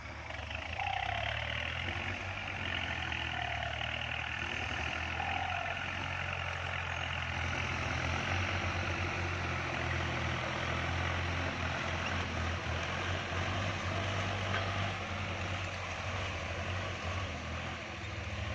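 Kubota MU4902 tractor's diesel engine running steadily while plowing, a constant low drone with a dense hiss over it. A few short falling chirps sound in the first few seconds.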